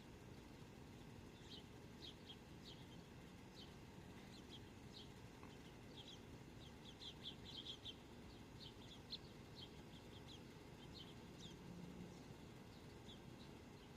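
Faint, quick high-pitched bird chirps in scattered runs, thickest about seven to eight seconds in, over a low steady background hum.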